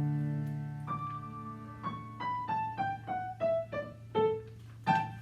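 Piano closing out the song: a held chord, then a falling run of single notes at about three a second, ending on a short chord near the end.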